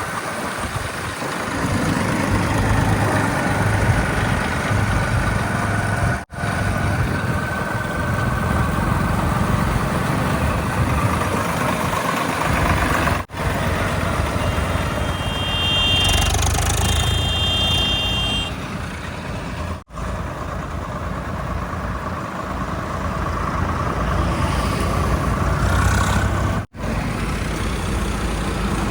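Heavy diesel machinery engines running steadily, broken by brief dropouts about every six and a half seconds. Just past the middle, a high two-tone signal sounds twice.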